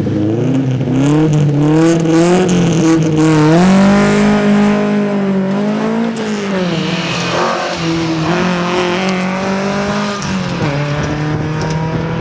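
1961 Volvo 122S rally car's engine pulling hard under load, its pitch climbing, holding, then dropping as it lifts and changes gear.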